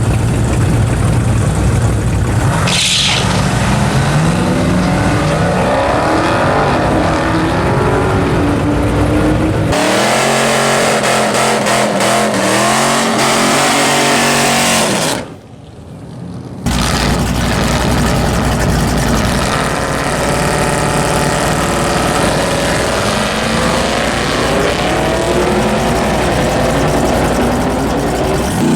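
Drag-racing cars accelerating hard down the strip, engine pitch climbing through the gears again and again. A brief high screech about three seconds in. The sound changes abruptly a few times, as if several runs are cut together.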